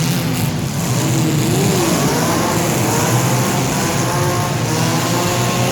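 Compact cars' engines running and revving, their pitch rising and falling repeatedly over a steady wash of engine noise.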